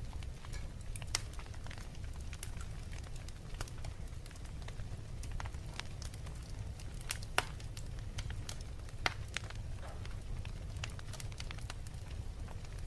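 Wood fire crackling in a fireplace: irregular sharp pops and snaps over a steady low rumble of the flames, with a few louder pops about seven and nine seconds in.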